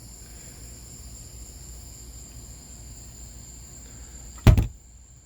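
Steady high-pitched chirring of crickets, with one loud thump about four and a half seconds in.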